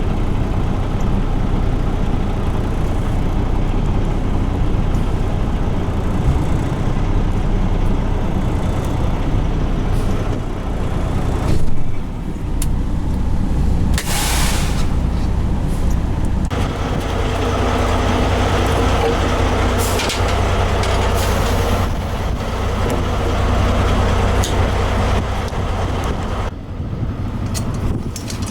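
Heavy truck's diesel engine idling with a steady low rumble, with a brief knock and then a burst of air hissing a little past midway, typical of a tractor-trailer's air brake system.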